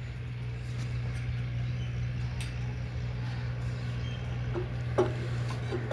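Steady low hum of a running engine, with a few short knocks near the end.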